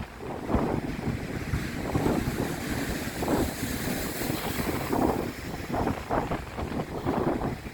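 Strong wind buffeting the microphone in uneven gusts over the rush of sea waves breaking and splashing; a hiss of surf swells up in the middle.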